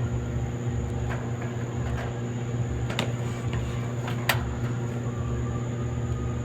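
Clothes dryer running: a steady motor hum with a low drone, broken by a few light knocks.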